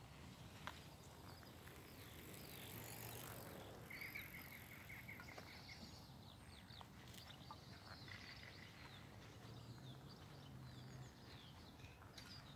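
Faint outdoor ambience with small wild birds chirping, including a short rapid trill about four seconds in.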